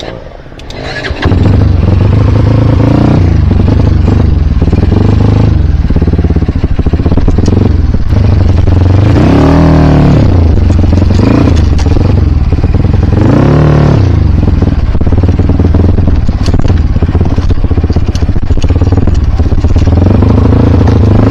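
Single-cylinder KLX trail bike engine revving hard under load. It starts about a second in and stays near full throttle, rising and falling in pitch a couple of times midway.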